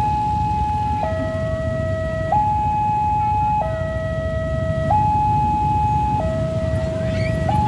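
Railway level-crossing warning alarm sounding a steady two-tone high-low signal, each note held about a second and a quarter, warning that a train is approaching. A low rumble runs underneath.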